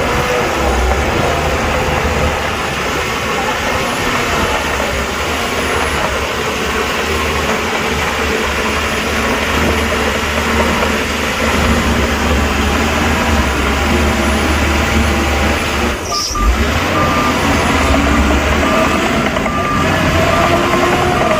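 Heavy diesel earthmoving machinery running steadily, its engine note rising and falling. After a short break about three quarters of the way through, a reversing alarm starts beeping at an even pace, about once a second.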